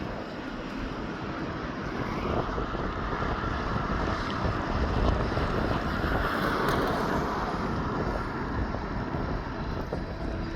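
Heavy truck driving past, its engine and tyre noise building up over the first few seconds, strongest midway, then easing a little, with wind on the microphone.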